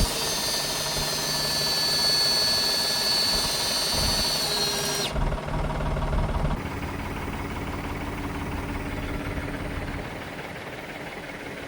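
A motor running steadily with a high whine. About five seconds in the whine stops abruptly and a lower, quieter hum continues.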